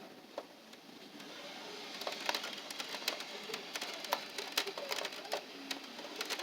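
Raindrops pattering and ticking on a hard surface close to the microphone, with a rising hiss of rain. The rain picks up about two seconds in, the irregular drop hits growing denser and louder.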